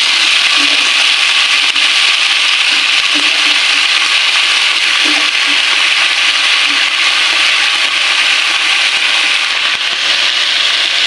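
Eggplant strips frying in hot oil in a wok: a steady sizzle.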